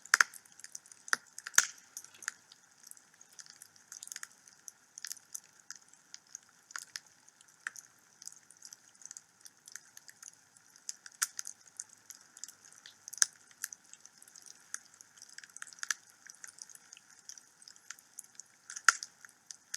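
Wood fire burning in a fireplace, crackling and popping irregularly, with a few louder pops, over a faint steady hiss.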